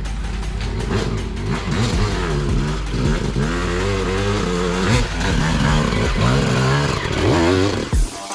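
Dirt bike engine revving up and down over and over as the throttle is worked, the pitch rising and falling with each burst. It cuts off just before the end.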